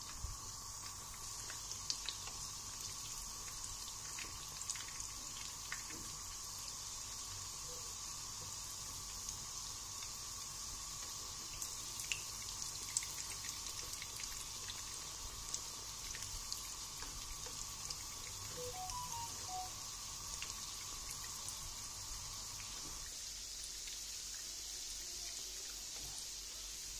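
Filled dough pastries shallow-frying in hot oil: a steady sizzle with scattered crackles and pops.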